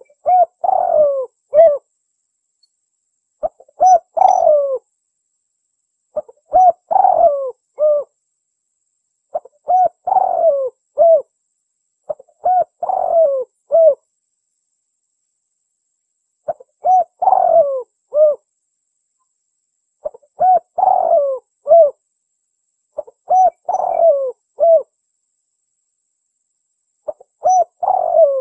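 Spotted dove (tekukur) cooing its full song: a short multi-note coo phrase repeated about every three seconds, nine times over, each phrase lasting about a second and a half with a clear silence between.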